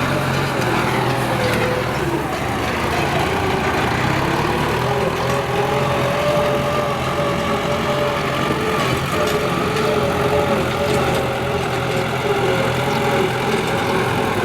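Kubota M9540 tractor's diesel engine running steadily under ploughing load, its pitch drifting slightly up and down.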